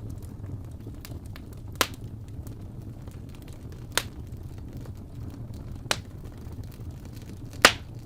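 Wood fire burning in a fireplace: a steady low rumble with small crackles, and four sharp pops about two seconds apart, the last the loudest.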